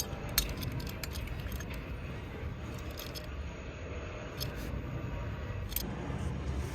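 Scattered light clicks and clinks, the sharpest about half a second in, over a low steady rumble.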